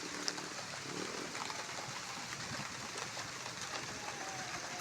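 Rain falling steadily: an even hiss with no pauses.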